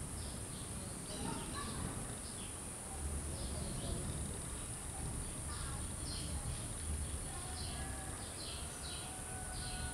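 A small bird chirping over and over in short high notes, about twice a second, over a low rumble of outdoor background noise.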